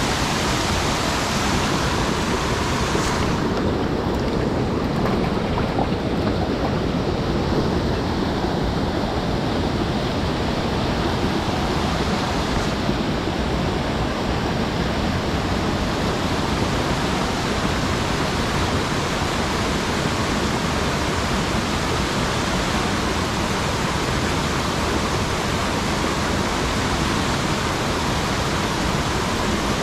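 Steady rush of a mountain stream's water spilling over a check dam, an even roar with no breaks.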